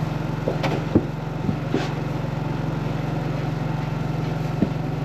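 A motor vehicle engine idling steadily, with a few brief knocks and short squeaks over it.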